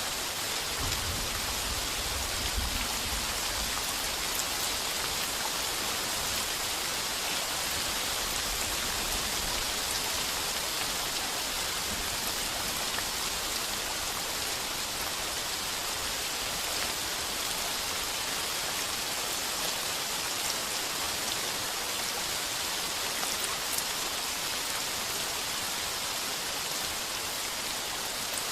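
Heavy rain falling steadily on a tin roof, a dense even patter. A low rumble of distant thunder sits under it for the first ten seconds or so and fades away.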